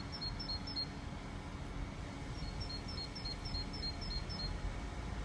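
A small bird singing a repeated two-note phrase, one short run at the start and a longer run of about eight phrases in the middle, over the low rumble and hum of a distant diesel multiple unit approaching the station.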